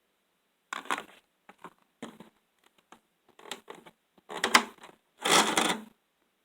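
A series of irregular clicks, knocks and clatters, about eight of them over five seconds, the loudest two near the end.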